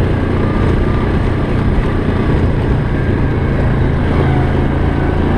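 ATV engine running steadily while riding along a snow trail, at an even pace with no change in revs, under a continuous rush of wind and trail noise.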